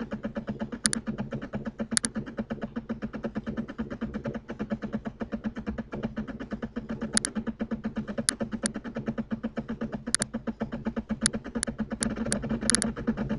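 About a dozen short, sharp clicks at irregular intervals, several bunched near the end, over a fast, steady pulsing hum.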